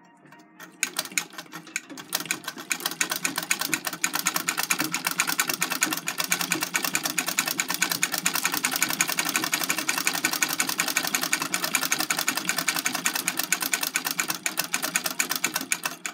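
Singer vibrating-shuttle sewing machine running at speed with a fast, even, noisy clatter, starting about a second in and stopping near the end. The noise comes from the shuttle slamming back and forth in its carrier because the carrier's lash spring has broken off.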